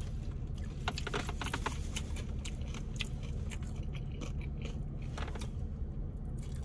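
Close-miked mouth sounds of a person biting and chewing food, with scattered crisp crunches, thickest about a second in and again around three and five seconds in. A steady low hum sits underneath in the car cabin.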